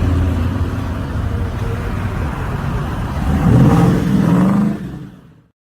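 Car engine running with a low, steady note, swelling louder with a rev about three and a half seconds in, then fading away near the end.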